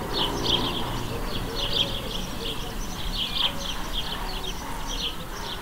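Small birds chirping: a steady run of short, high chirps, a few each second, over a low background rumble.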